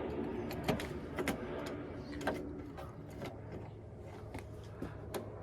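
Scattered light clicks and knocks of door handle and latch parts being handled and fitted inside a truck door, about one a second, over a faint steady low hum.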